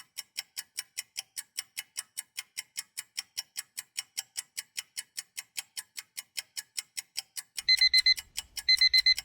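Clock ticking quickly and steadily as a countdown timer. Near the end a digital alarm clock beeps in two quick bursts, signalling that the time to answer is up.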